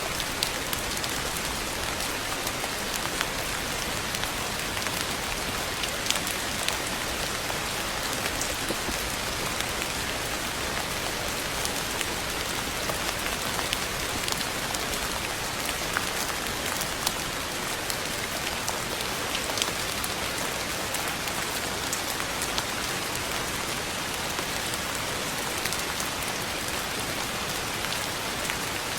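Steady rain falling on a hard surface, with many scattered drop ticks over an even hiss.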